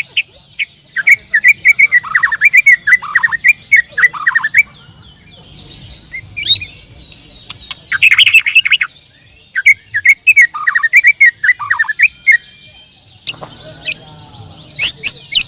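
A songbird singing in four phrases of quick chirps and short downward-sliding notes mixed with sharp high clicks, with short pauses between the phrases.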